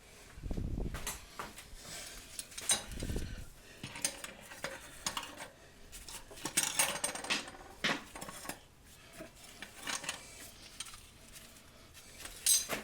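Metal disposal mounting parts clinking, rattling and knocking as they are handled and taken apart, with a few dull thumps in the first few seconds.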